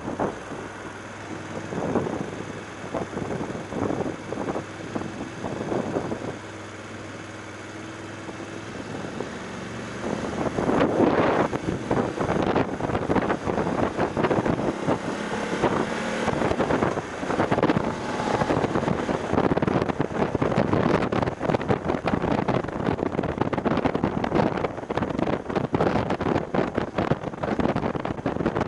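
BMW F750GS parallel-twin motorcycle running with wind buffeting the action camera's microphone. It is quieter for the first third, with the engine tone audible under the gusts, then the wind rush grows much louder and steadier as the bike picks up speed.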